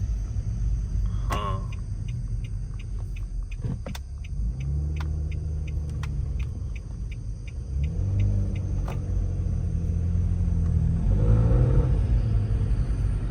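A car's exhaust giving a deep, rough rumble as the car is driven, rising in pitch as it accelerates; the low moaning drone is the 'bull' sound. The owner suspects an exhaust leak after running over a dead deer punctured the exhaust. A light ticking, about three a second, runs through the middle.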